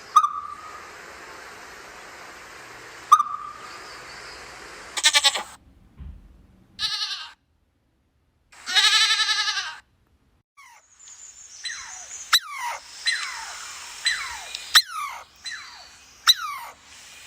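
A string of animal calls from different animals in turn: short squeaks, a wavering bleat-like call about 9 s in, then a run of quick high squeaks, each falling in pitch.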